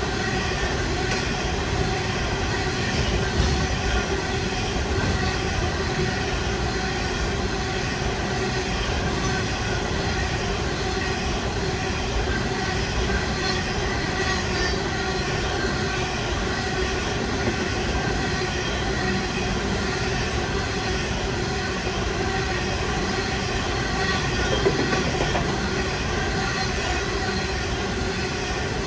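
Coal train's steel hopper wagons rolling steadily past close by: a continuous rumble of wheels on rail with a steady ringing tone over it, and a louder knock a few seconds in and another near the end.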